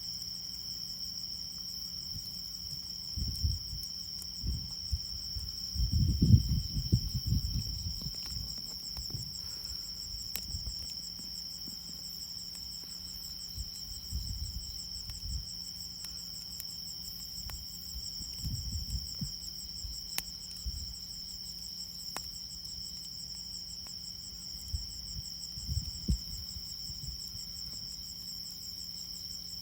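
Crickets trilling steadily on one high pitch, with a few sharp pops from a wood fire. A few low rumbles, the loudest about six seconds in.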